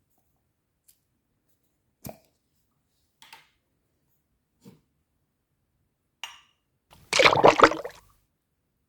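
Wood fire crackling: a few separate pops spaced a second or more apart, then near the end a loud burst of rapid crackling lasting about a second.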